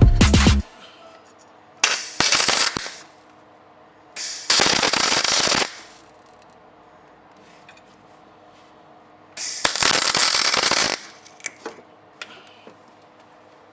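Welder laying three short tack welds, each a crackling burst of about a second, the second one a little after the first and the third some seconds later. Music ends just at the start.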